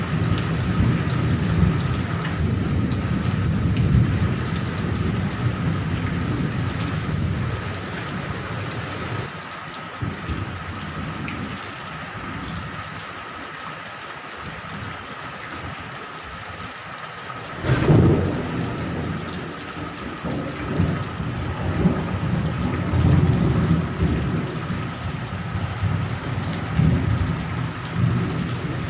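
Steady rain during a thunderstorm, with thunder rumbling through the first third, easing off, then a sudden sharp thunderclap about eighteen seconds in followed by more rolling rumbles.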